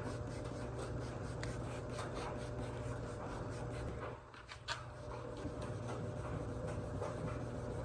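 Wet sandpaper rubbed back and forth by hand over a plastic headlight lens in quick, even scraping strokes, with a short pause about four seconds in. It is taking off the oxidised, yellowed build-up on the lens.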